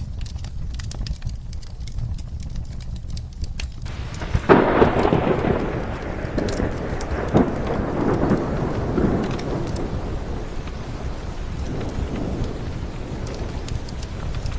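Steady rain with a crackling fireplace. About four and a half seconds in, a sudden thunderclap breaks into long rolling thunder that slowly fades.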